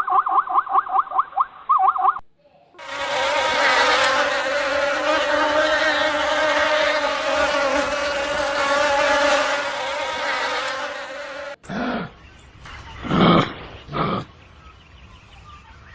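An insect buzzing steadily for about nine seconds, then cutting off suddenly. Before it comes a quick run of short repeated animal calls, about eight a second. After it come a few separate, loud animal calls.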